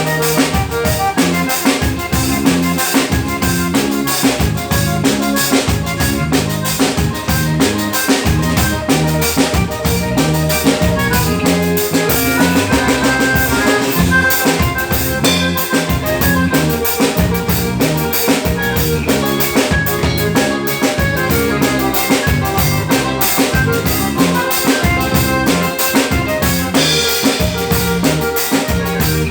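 Live band playing a song at a soundcheck, a drum kit keeping a steady beat under sustained pitched instruments.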